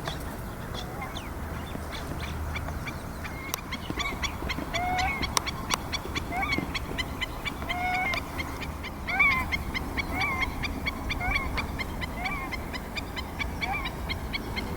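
Hawaiian stilts (ae‘o) bickering with many quick, sharp calls. From about four seconds in, nēnē (Hawaiian geese) give short honking calls about once a second.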